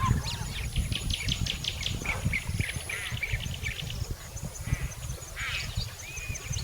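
Birds chirping and calling: quick runs of short high notes in the first half, then scattered curved calls, over a low rumble.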